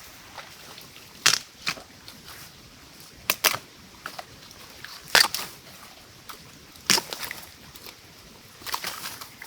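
A series of irregular sharp cracks and snaps, about eight of them, the loudest about five seconds in.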